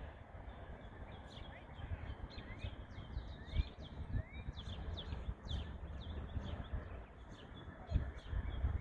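Outdoor songbirds chirping again and again, many short high chirps and quick rising whistles, over an uneven low rumble.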